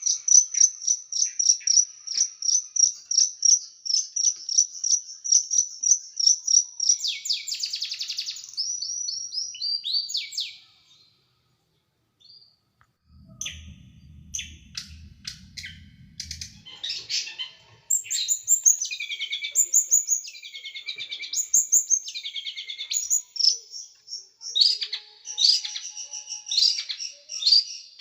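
Small songbird singing fast runs of high, sharp repeated notes, the rapid 'shooting' phrases prized in bird-training song. The song stops for a few seconds about halfway through, with a brief low rumble, then resumes as varied chirping phrases.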